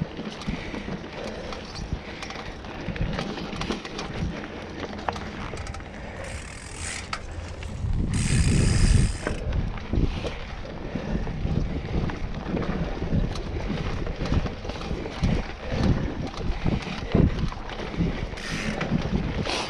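Mountain bike rolling fast over a rough dirt trail: a steady jumble of knocks and rattles from the bike over roots and rocks, with tyre rumble. A louder rushing burst comes about eight seconds in.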